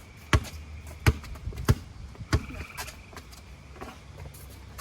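Basketball being dribbled: four sharp bounces about two-thirds of a second apart, then a few fainter ones in the second half.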